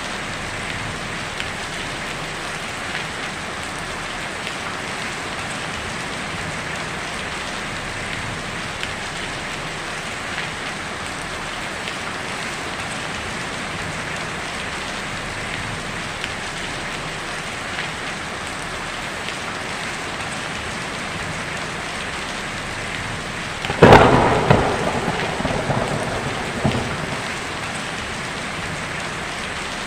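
Steady heavy rain drumming on a tin roof, with a sharp thunderclap about four-fifths of the way through that rumbles away over a few seconds.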